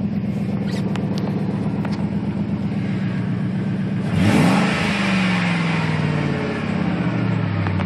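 A 2000 Ford F-150's 4.6-litre V8 through a Flowmaster 40 Series exhaust idling steadily, then revved once about halfway through: the pitch climbs sharply, the sound gets louder, and it falls back to idle over the next couple of seconds.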